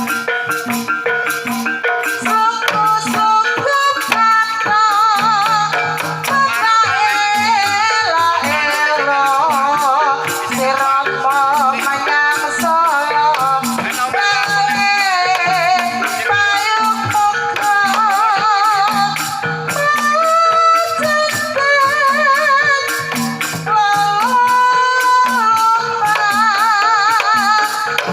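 Banyumas-style Javanese gamelan music for tayub: a sinden sings a long melody with a strong, wavering vibrato over a steady beat of percussion strokes.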